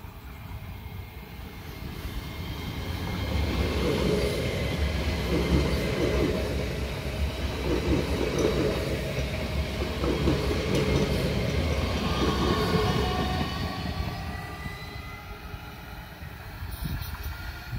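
An ODEG electric multiple-unit train passing by: a rumble with rhythmic wheel clatter that builds over the first few seconds, stays loudest through the middle, then fades as the train runs off, with a faint whine above it.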